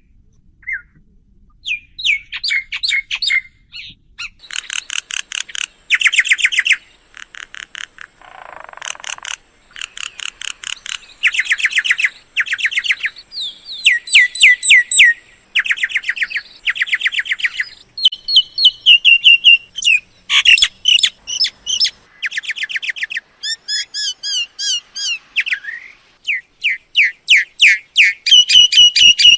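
Myna calling: loud, varied phrases of rapid repeated chirps and whistled notes in bursts of a second or so, with short pauses between them.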